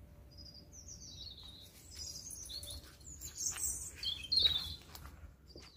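Small birds chirping and calling in trees: a run of short, high, quick notes, some sliding down in pitch, growing busier after about two seconds, over a faint low background rumble.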